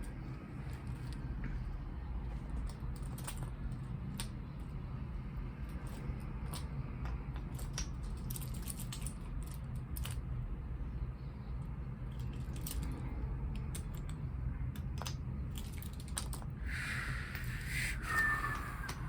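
Small clicks and taps of plastic toy subway cars being handled and set together, over a steady low hum. A short squeak that falls in pitch comes near the end.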